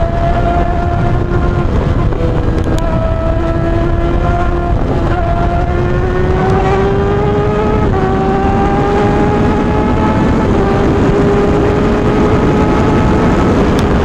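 Suzuki GSX-R600's inline-four through a straight-piped M4 exhaust with no catalytic converter, pulling steadily with its note slowly rising and dropping at gear changes about 5, 8 and 10.5 seconds in, over heavy wind rumble on the microphone.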